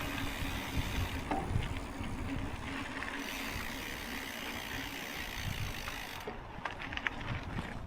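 Mountain bike rolling along a trail: a low rumble from the tyres with scattered light clicks and rattles from the bike, a few more clicks near the end.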